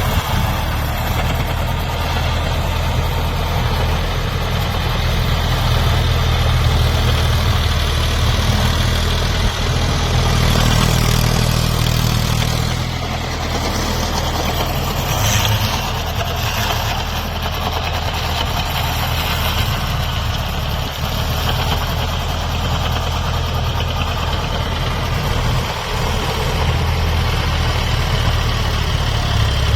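Eicher diesel tractor engine idling with a steady low drone, the note briefly fuller and a little higher about a third of the way in.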